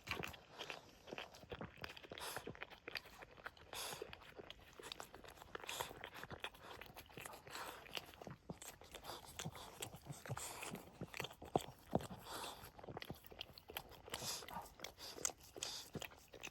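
Boston Terrier mother licking and chewing at her newborn puppy: a run of irregular wet clicks and smacks.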